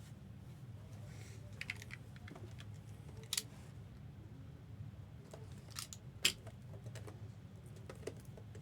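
Trading-card packs and cards being handled: light rustling and a few sharp clicks and snaps, the loudest about six seconds in, over a steady low hum.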